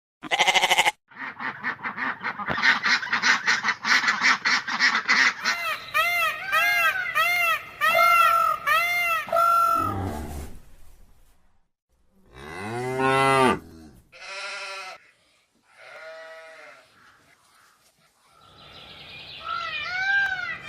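A series of animal calls from several short clips: a dense rapid chatter, then a run of repeated rising-and-falling calls about two a second, a long deep call about twelve seconds in, a few shorter calls, and more repeated calls near the end.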